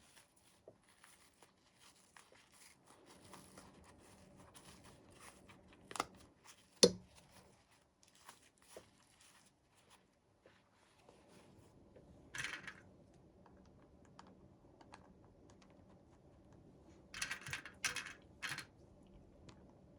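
Toy packaging being handled and opened by hand: soft rustling, a couple of sharp plastic clicks about six and seven seconds in (the second the loudest), and short bursts of crinkling and tearing around the middle and again near the end.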